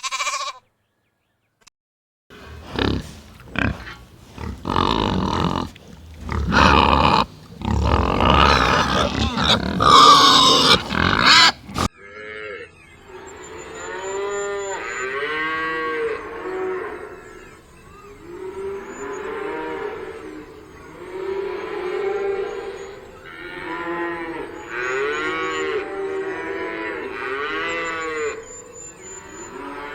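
Cattle mooing. After a short high call at the very start, there are loud, harsh bellows for about ten seconds; from about twelve seconds in, a series of drawn-out moos follows, rising and falling in pitch, one every couple of seconds.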